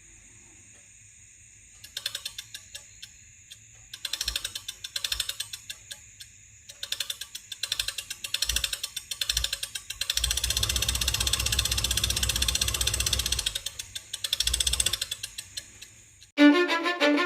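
Rapid mechanical clicking and rattling in repeated bursts of a second or two, running steadily for a few seconds in the middle. Music with a violin starts abruptly near the end.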